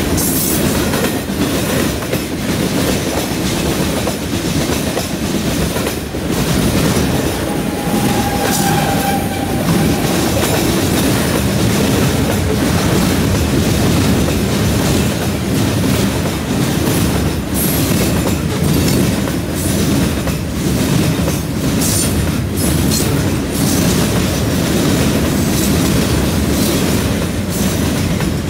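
Freight cars of a long mixed freight train rolling past at speed: a steady heavy rumble with the wheels clicking and clattering over the track, and a brief wheel squeal about eight seconds in.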